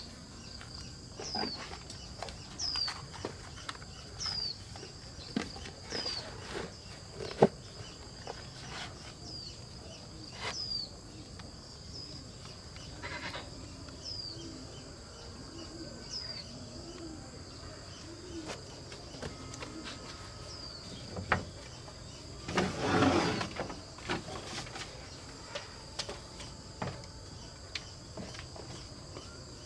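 Rural outdoor ambience: a bird repeats a short, high, falling call about every second and a half over a steady high insect drone, with scattered light knocks and rustles. A farm animal, most likely a goat, bleats loudly once, a bit over two-thirds of the way through.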